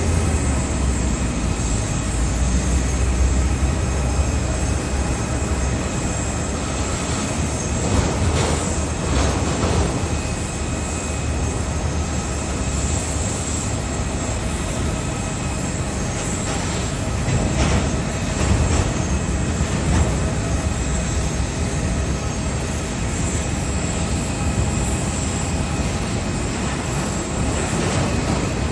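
Steady jet airliner noise during a pushback: a high turbine whine with several steady tones over a low rumble, swelling briefly a few times.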